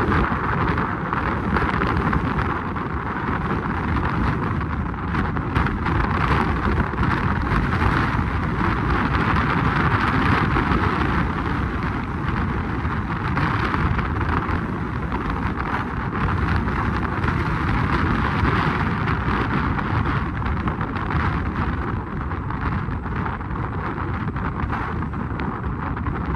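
Wind buffeting the microphone: a steady rushing noise that swells a little around the middle.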